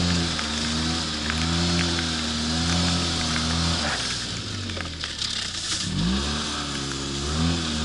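Polaris RZR 800 EFI side-by-side's twin-cylinder engine running under throttle in snow, its pitch wavering up and down, dropping sharply about six seconds in and rising again, over a steady hiss.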